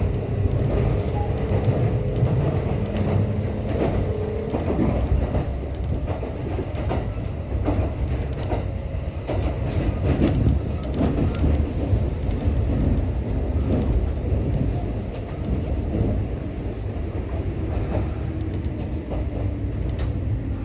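Kintetsu Nara Line electric train running, heard from inside the car: a steady low rumble with scattered wheel clicks and knocks, and a faint motor hum in the first few seconds and again near the end.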